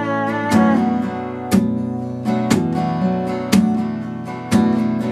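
Acoustic guitar strummed in an instrumental passage of a song, one stroke about every second with the chords ringing on between strokes.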